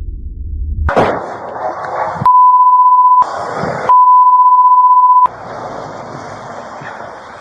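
Two steady 1 kHz censor bleeps, each about a second long, with noisy sound between and after them. They follow a sudden loud noise about a second in.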